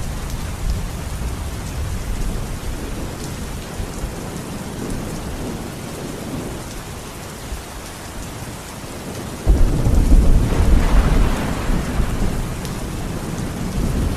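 Steady rain with low rolling thunder. About two-thirds of the way through, a sudden loud thunderclap breaks in and rumbles on.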